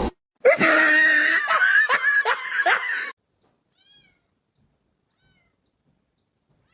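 A cat meowing loudly in a drawn-out, wavering yowl for about two and a half seconds, then cutting off suddenly. A faint short chirp follows about a second later.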